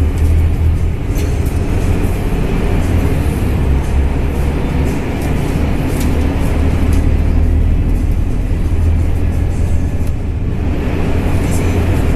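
Double-decker bus engine and drivetrain running steadily under way, a continuous low drone with road noise.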